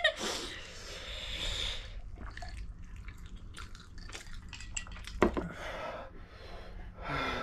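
Close-up eating sounds: wet chewing and mouth smacks, many small sharp clicks, with a sharper click a little after five seconds.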